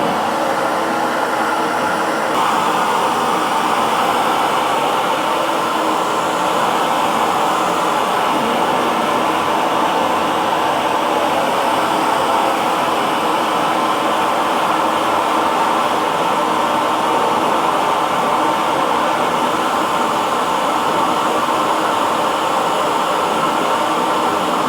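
Electric hair dryer running continuously, a steady loud whooshing blow of air with a faint motor hum, with a slight change in tone about two seconds in.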